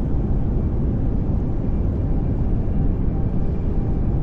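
Steady pink noise: a constant, even rushing hiss, fuller in the low end than the high, with no change in level.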